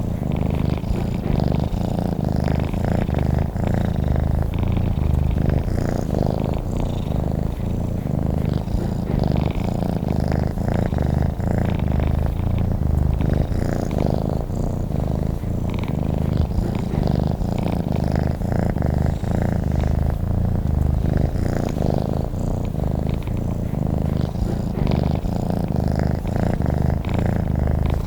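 Domestic cat purring steadily and close up: a low, continuous rumble with no breaks.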